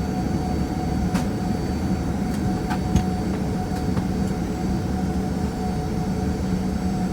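Steady cabin hum and rumble of a Boeing 737-800, heard from inside: the engines running at low power together with the air-conditioning airflow, with a few fixed tones including a faint high whine. A few light clicks or knocks sound about one to four seconds in.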